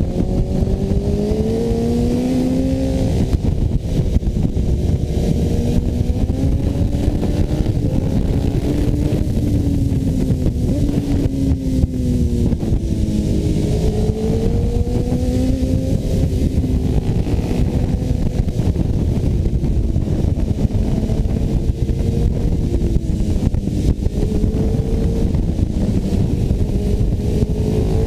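Sport motorcycle engine running at speed, its pitch rising and falling with the throttle through the bends, under heavy wind rush on a helmet-mounted microphone.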